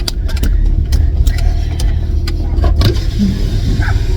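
Car running at low speed, heard from inside the cabin as a steady low rumble, with scattered sharp clicks and knocks.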